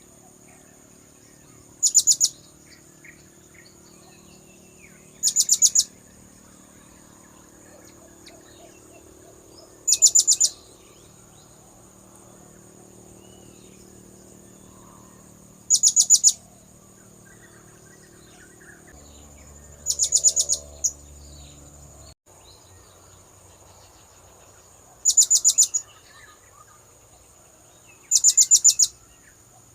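Blue-crowned hanging parrot (serindit) lure call: a short, shrill, rapidly pulsed call repeated seven times, every three to six seconds. A steady high whine runs underneath.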